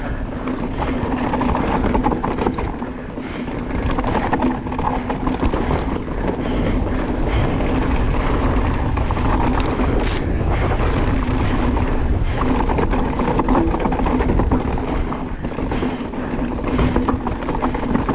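Electric mountain bike on 27.5 x 2.8 plus tyres riding a rough trail at speed: steady tyre and wind noise, broken by frequent knocks and rattles from the bike over bumps.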